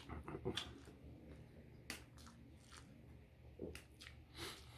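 A man chewing a mouthful of pancit canton instant noodles, faint and close, with a few short clicks scattered through.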